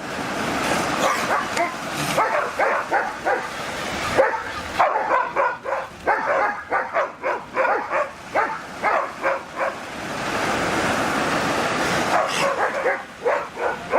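A dog barking over and over in short, quick barks, about two to three a second, with a steady hiss in the pauses.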